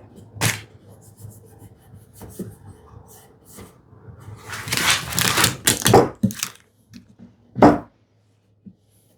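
Hand planing and handling of a wooden drawer: short sharp scraping strokes and small knocks of wood. There is a longer scraping pass about five seconds in, and another short stroke near the end.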